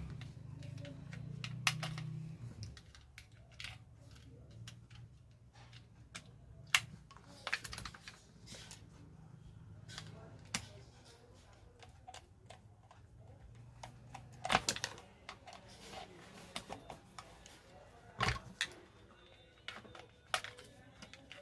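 Irregular clicks and taps of hand tools and small parts being handled during work on a DeWalt angle grinder, with a few sharper knocks. A faint low hum is under the first couple of seconds.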